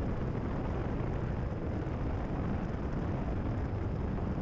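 Steady cruise drone of a Cessna 172RG's engine and propeller with airflow noise, heard inside the cabin, strongest in the low range.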